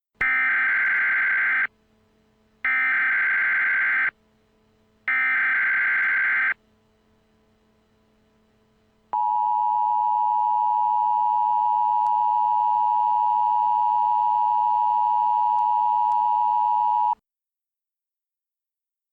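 Emergency weather alert broadcast: three short bursts of screeching digital header data, then a long steady warning tone for about eight seconds that cuts off sharply. This is the signal that opens a National Weather Service flash flood warning.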